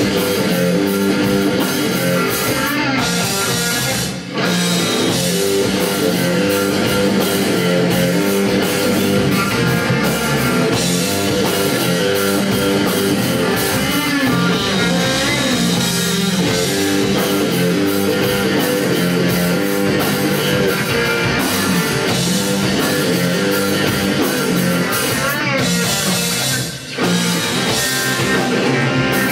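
Rock band playing live, an instrumental passage with electric guitar and drum kit, with two brief breaks, about four seconds in and near the end.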